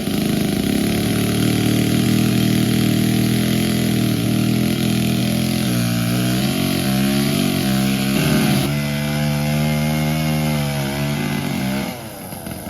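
A small engine running steadily, its pitch wavering up and down, easing off briefly near the end before picking up again.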